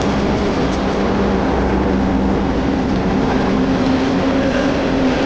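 Train passing close by: a loud, steady rumble with a low droning engine tone that steps up slightly in pitch partway through.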